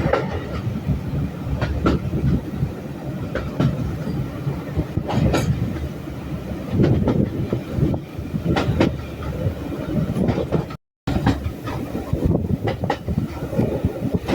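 Railway train running, with a steady low rumble and irregular sharp clacks of the wheels over rail joints. The sound cuts out completely for a moment about eleven seconds in.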